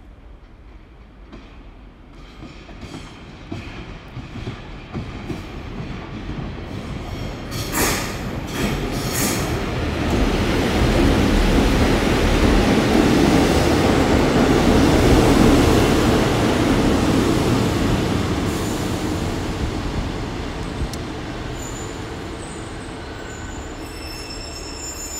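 A GWR diesel multiple unit runs into the platform. Its rumble builds as it approaches, is loudest as it runs past, then slowly fades as it draws away along the platform. Brief sharp squeals come about eight seconds in, and there is a thin high squeal near the end.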